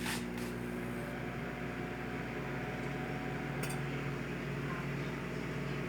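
Microwave oven running with a steady hum while cooking an omelette in an omelette maker. A faint click comes a little under four seconds in.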